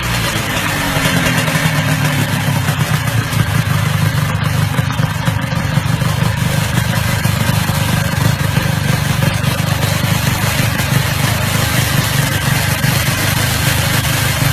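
Twin-engined motorcycle built from two Yamaha RX-King two-stroke engines, running steadily with a fast, even beat of firing strokes.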